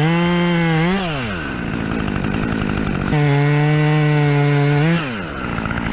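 Two-stroke chainsaw revved to full throttle. Its pitch sags and goes rougher from about one to three seconds in, then it revs high and steady again before dropping back toward idle near the end.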